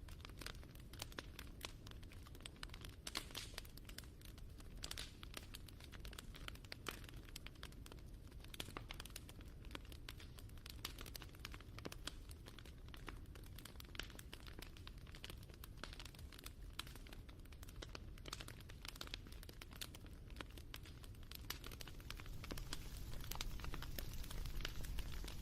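Wood fire crackling: irregular snaps and pops over a low steady rumble, growing a little louder near the end.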